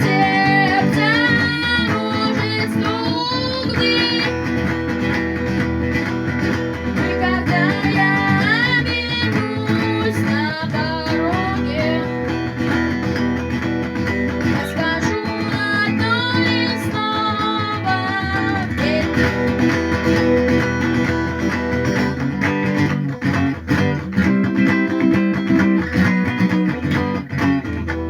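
Acoustic guitar strummed in a galloping rhythm with the percussive 'стук' strike on the strings, played as a lesson exercise, with a melody line that glides up and down above it.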